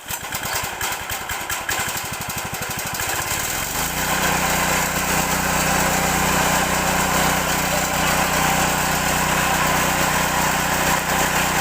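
Small engine driving a corn-stalk chopper machine starting up: slow, evenly spaced firing beats for about three and a half seconds, then it picks up speed into a steady, loud run.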